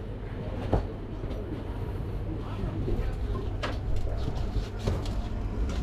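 Low steady hum inside a standing passenger train carriage, with scattered knocks and clicks from movement in the carriage.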